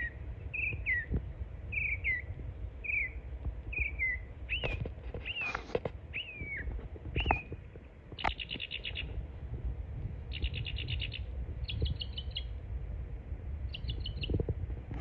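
A songbird calling. First comes a run of short down-slurred chirps, about one a second. Then come a few longer arching notes, and near the end several quick, dry trilled rattles.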